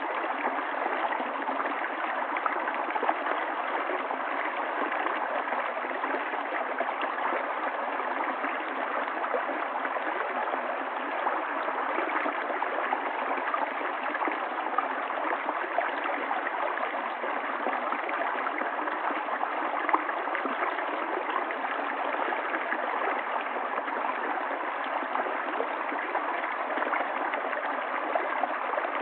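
River water flowing over rocks: a steady rush with small gurgles and splashes, even in level throughout.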